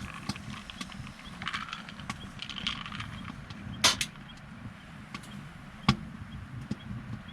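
Wood fire crackling: scattered small pops and ticks over a low, steady rumble, with two loud sharp snaps, the first about four seconds in and the second two seconds later.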